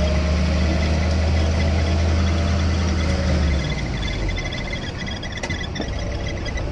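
1953 Willys CJ3B Jeep's four-cylinder F-head engine running on a drive. Its steady low drone falls away about halfway through.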